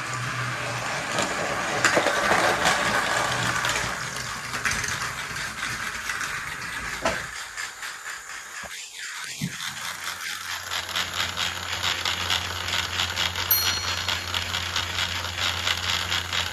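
Battery-powered toy train running on plastic track, rattling and clicking. About two-thirds of the way in, a steady low motor hum sets in under rapid, even clicks.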